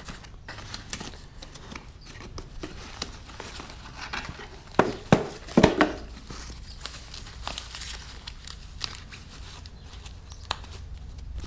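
A package being handled and torn open: crinkling, rustling and tearing of the packaging, with scattered small clicks. A few louder sharp handling noises come about five seconds in.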